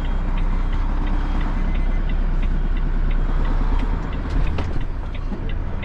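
Articulated lorry's diesel engine running at low revs during a slow reversing manoeuvre, with a light, regular ticking about three times a second.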